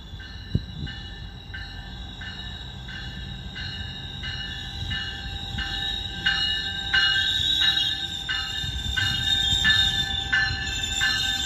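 Train approaching and growing louder, with a rumble underneath and high-pitched ringing tones that pulse about twice a second. A sharp click comes about half a second in.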